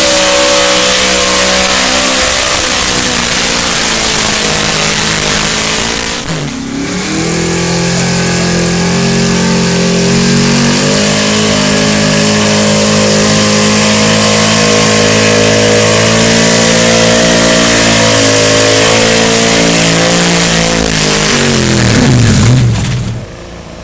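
Competition pulling truck's engine running hard at full throttle under heavy load, with a brief dip about six seconds in. Near the end the revs fall away sharply as the throttle is let off.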